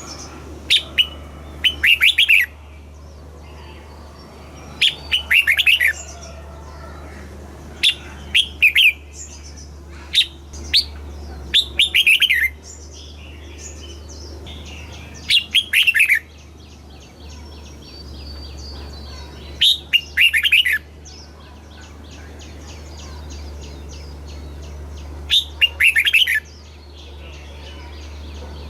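Red-whiskered bulbul singing short, loud, warbling phrases again and again, a few seconds apart, over a steady low hum. This is the kind of song played to caged bulbuls to excite them or to teach young birds.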